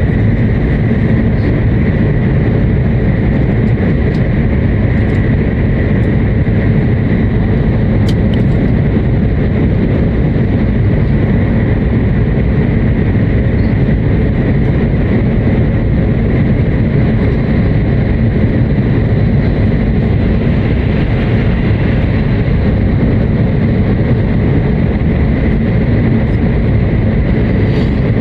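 Shinkansen passenger cabin at speed in a tunnel: a loud, steady rumble of running noise with a faint, steady high whine over it.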